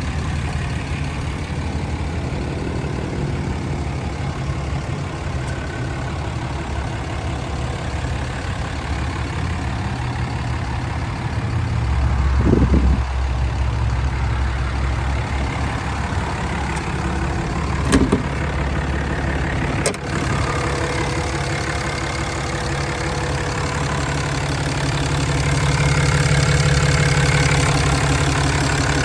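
Ram 2500's 6.7-liter Cummins turbo diesel idling steadily. It gets louder briefly about twelve seconds in and again near the end, with a couple of short sharp clicks in between.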